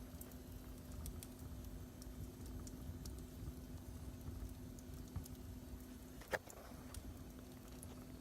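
Wood fire in a fireplace crackling faintly over a low rumble, with one louder pop about six seconds in.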